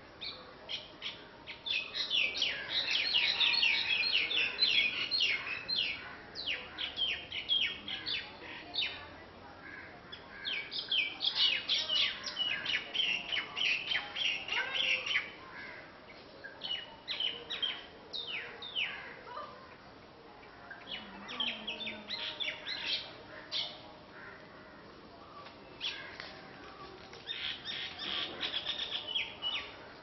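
Birds in the tree canopy chirping in bursts of rapid, high chattering notes, several seconds at a time with short lulls between.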